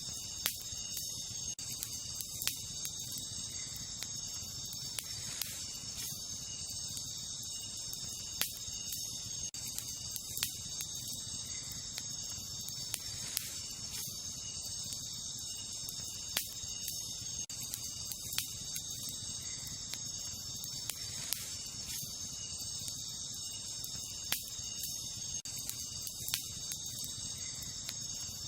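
Wood campfire crackling, with irregular sharp pops every second or two, over a steady high-pitched chorus of night insects such as crickets.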